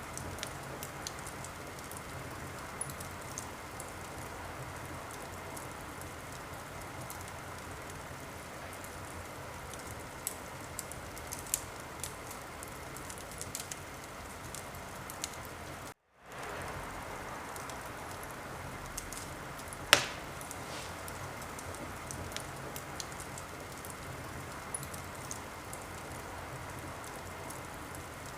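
Wood fire crackling: a steady hiss with scattered sharp pops and one much louder pop about two-thirds of the way in. Just past halfway the sound cuts out for a moment and fades back in.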